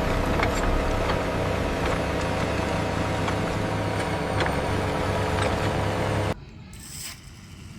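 Steady engine running at idle, like a heavy construction vehicle, with a strong low hum and a few light clicks; it cuts off suddenly about six seconds in.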